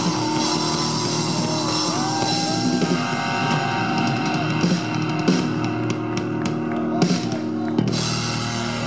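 Rock band playing live, without vocals: electric guitars and a drum kit, with a few hard drum hits in the second half.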